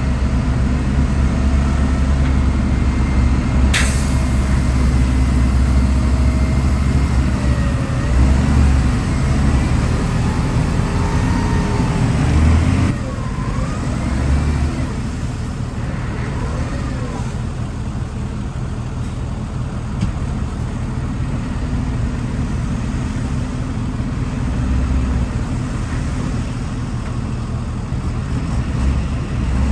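Heavy diesel engine of earthmoving machinery running steadily under load, a deep rumble throughout. A sharp click comes a little before 4 seconds in, and wavering squeaks come and go between about 8 and 17 seconds.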